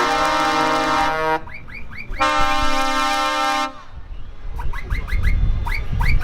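Truck horns sounding two long, steady, multi-note blasts, with quick rising whistle-like chirps in between and after. A low engine rumble comes in during the second half, and near the end a rising whistle settles on a steady high note.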